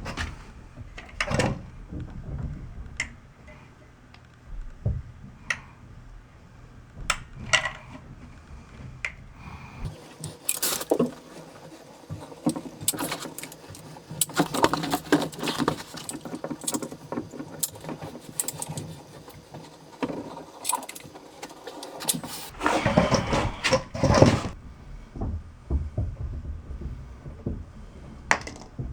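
Irregular clicks, knocks and scraping from hand tools and building materials being handled, with denser scraping about ten seconds in and again a little after twenty seconds.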